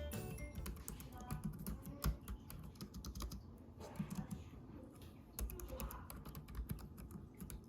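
Typing on a Logitech K380 Bluetooth keyboard: a quick, uneven run of light key clicks.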